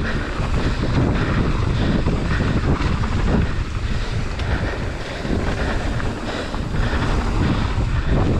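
Wind buffeting the microphone of a camera on a mountain bike riding downhill at speed, over a steady low rumble of tyres rolling on a dirt trail with irregular knocks and rattles from the bike.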